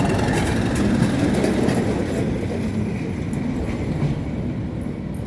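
A test train with a Class 37 diesel locomotive on the rear passing, its engine running, wheels clicking over rail joints. The sound slowly fades toward the end as the train moves away.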